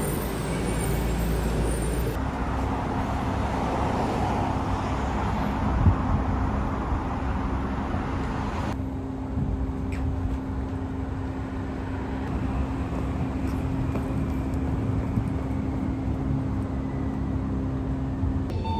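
Road traffic noise: a steady rumble of passing vehicles with a low hum, changing abruptly twice.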